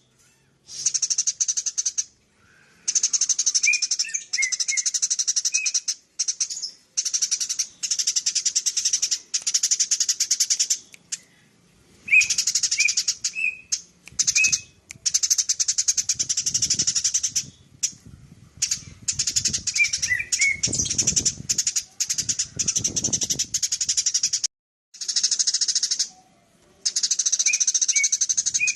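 Eurasian tree sparrow (burung gereja) chattering in long, very rapid, high-pitched runs of several seconds each, broken by short pauses, with a few short lower chirps mixed in.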